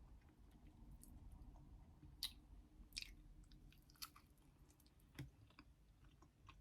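Faint chewing of food, with a few soft sharp crunches or clicks about a second apart.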